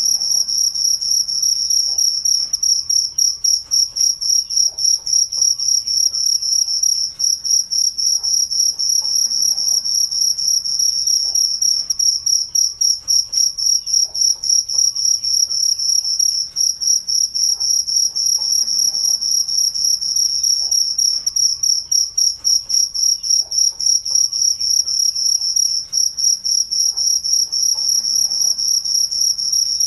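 Cricket chirping without a break: a high-pitched, fast, even pulsing trill.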